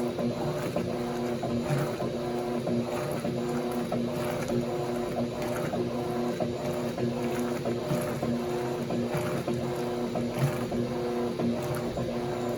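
Electrolux washing machines running a wash cycle: a steady electric motor hum under irregular churning of the water-laden load, with faint scattered clicks.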